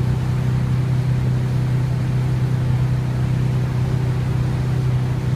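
Motorboat engine running at a steady speed: a constant low hum with a haze of wind and water noise over it.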